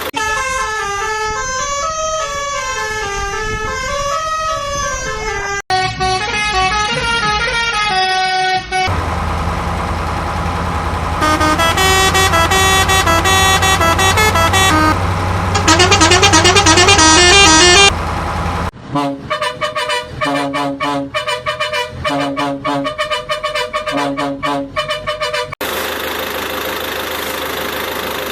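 Electronic horn and engine sound effects that change abruptly in several sections. First come warbling horn tones that rise and fall, then a steady engine-like hum under quick melodic beeps, then a choppy, stuttering rhythmic pattern near the end.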